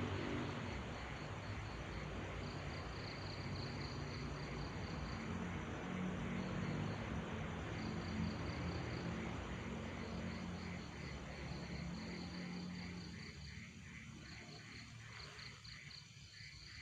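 Crickets chirping in steady pulsed trills, over a low droning hum that fades away near the end.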